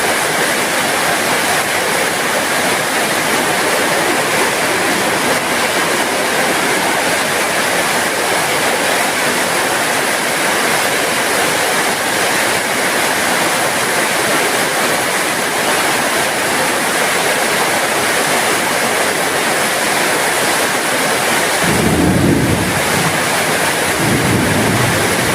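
Steady heavy rain falling. Near the end a low rumble swells up twice.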